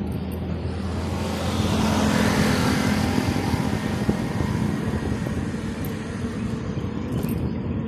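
A motor vehicle passing on the road, its noise swelling to a peak about two to three seconds in and then fading, over a steady low rumble.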